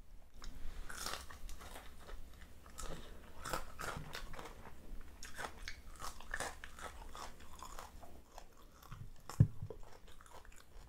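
Close-up crunchy chewing and biting of crispy fried tilapia and rice eaten by hand, many small crunches in a row. A single low thump about nine and a half seconds in is the loudest sound.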